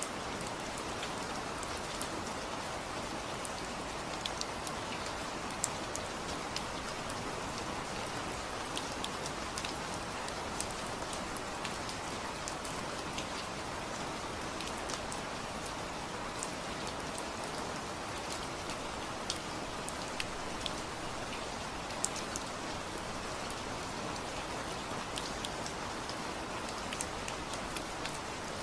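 Steady rain falling, a constant hiss with scattered sharper drops ticking on a surface.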